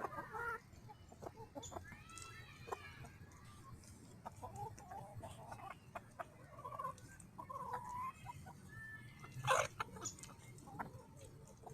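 Chickens clucking and calling while they eat kitchen scraps, with scattered sharp clicks and one louder click near the end.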